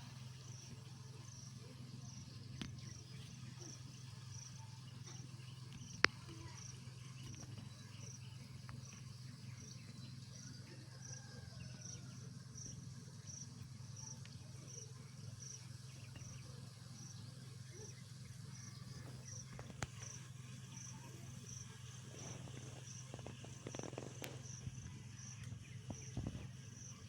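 An insect chirping in a steady rhythm, short high chirps a little more than once a second, over a steady low hum; a sharp click about six seconds in.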